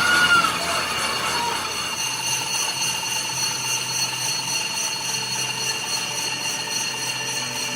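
Workshop machinery running with a steady high whine made of several tones, and a brief falling squeal right at the start.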